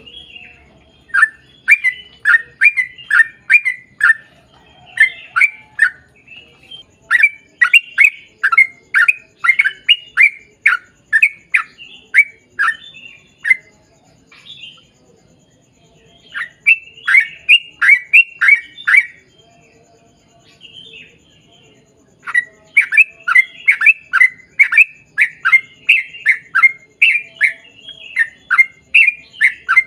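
Yellow-vented bulbul (trucukan) singing long runs of short, clear notes, each dropping quickly in pitch, at about two a second. The runs are broken by brief pauses of a second or more.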